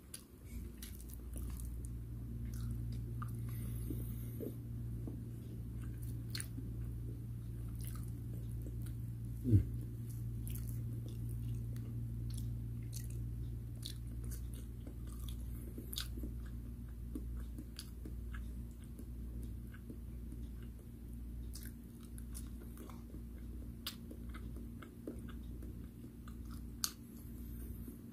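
Close-miked chewing and biting of fried food, with wet mouth clicks and light crunches, over a steady low hum. One loud sharp knock stands out about a third of the way through.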